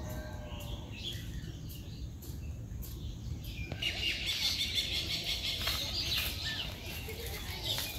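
Small birds chirping, the chirping growing louder and denser about four seconds in, over a steady low background rumble.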